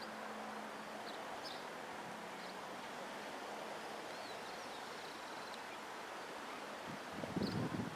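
Outdoor ambience: a steady hiss with a few short bird chirps, and a brief low rumble a little before the end, like wind buffeting the microphone.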